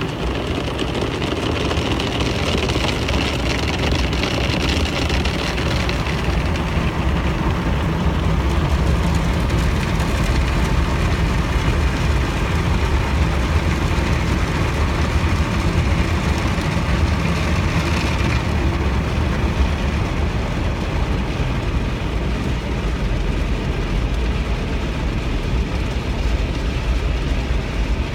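Car wash equipment running steadily: a loud, continuous mix of low rumble and hiss that shifts in tone about 6 seconds and again about 18 seconds in.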